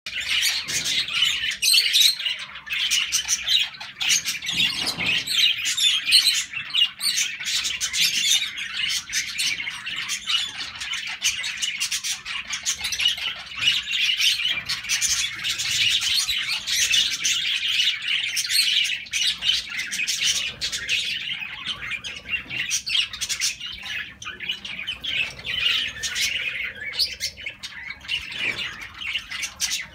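Many birds chirping and squawking without a break, a busy high-pitched chatter.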